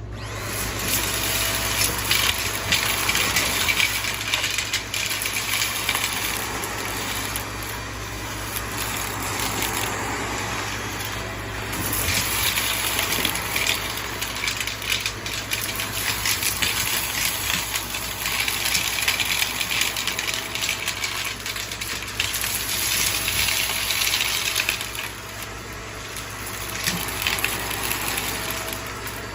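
Shark vacuum cleaner running and sucking up coins, which rattle and clatter through it in spells that come and go over a steady motor noise.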